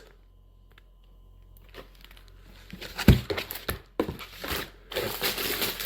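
Food packaging rustling and crinkling as items are handled and taken out of the bag, starting about two and a half seconds in and getting busier near the end, with a single thump about three seconds in as something is set down.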